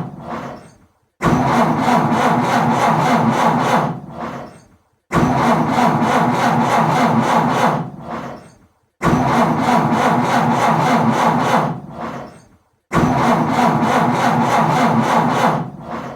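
Car engine cranking on its starter motor without catching: four separate attempts of about three seconds each, roughly every four seconds, each starting abruptly and dying away into a brief silence. It is a car struggling and failing to start.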